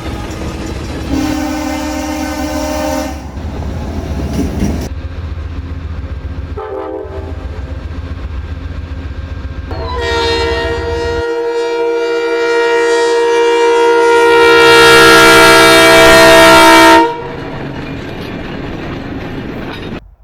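Diesel freight locomotive's multi-chime air horn sounding a crossing-style pattern: a blast of about two seconds, a short tap, then one long blast that builds to full loudness and stops sharply. Under the horn is the low rumble of the locomotive and the rolling train.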